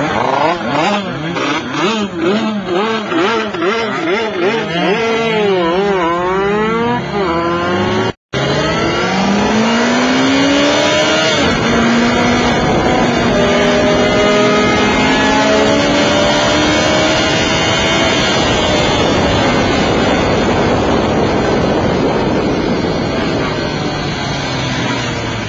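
Motorcycle engine revving hard under full acceleration, its pitch rising and dropping through the gear changes, over strong wind rush. The sound cuts out for a moment about eight seconds in, then the engine climbs again and holds a steady high pitch at speed before easing off near the end.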